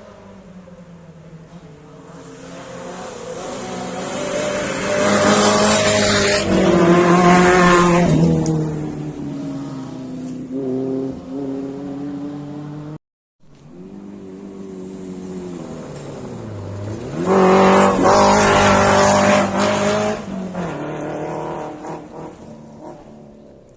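Two rally cars racing past one after the other. Each engine grows louder as it approaches, is loudest revving hard going by, and drops in pitch as it fades away.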